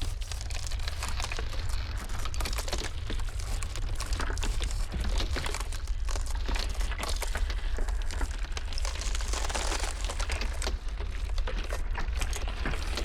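Ice cracking and crackling, a dense run of irregular snaps and crunches over a steady deep rumble.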